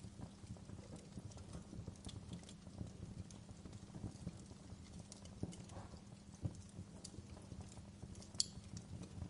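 Fireplace crackling: a low, steady rumble of burning with scattered sharp pops and snaps of the wood, one louder pop near the end.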